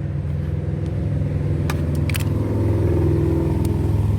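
A car engine idling, its note rising a little partway through, with a few sharp clicks.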